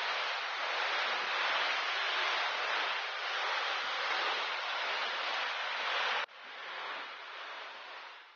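Steady rushing of falling water, such as a park waterfall or fountain. About six seconds in it drops suddenly to a quieter, fading rush.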